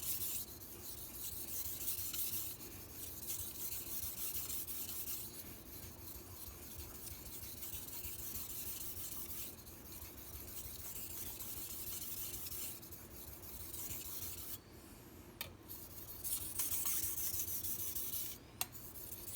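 Steel knife blade scraping over a 2000-grit Shapton Pro whetstone in repeated strokes of uneven length with short breaks between them. These are the last strokes on the stone, after a burr has been raised on both sides of the edge, to take that burr off.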